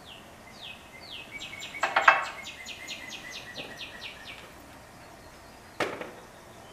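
A bird sings a quick run of falling whistled notes, about five a second, for the first four seconds or so. Mixed in are a loud metallic clatter about two seconds in and a single sharp knock near the end, from the tie-down strap being hooked onto the hitch-mounted motorcycle carrier.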